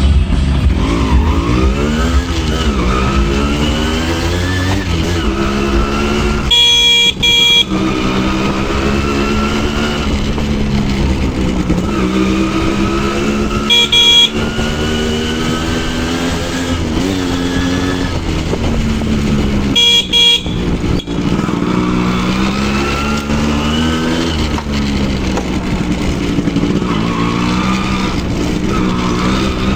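Yamaha RX100 two-stroke motorcycle engine running under way, its pitch rising and falling again and again as the throttle opens and closes through the gears. A horn honks three times, about seven, fourteen and twenty seconds in, the first one lasting about a second.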